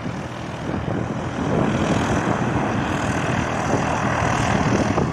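Propeller engine of a light fixed-wing aircraft running steadily, growing louder about a second and a half in.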